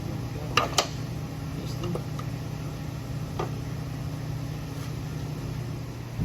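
A few sharp metal clicks and taps from small-engine parts being handled and fitted during reassembly: two close together about half a second in, then single ones later. A steady machine hum runs underneath.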